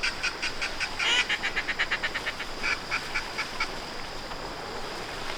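Rapid run of high-pitched duck quacks, about six a second, trailing off after about three and a half seconds, over a steady high buzz of insects.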